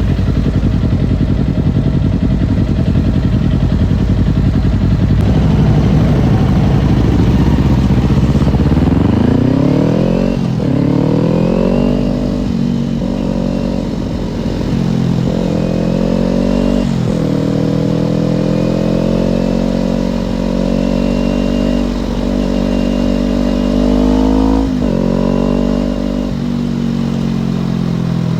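Kawasaki Ninja parallel-twin motorcycle engine heard from the saddle while riding. For the first several seconds it is buried in a heavy rushing rumble. It then revs up several times, its pitch climbing and dropping sharply at each gear change, and settles to a steady cruise before one more rise and shift near the end.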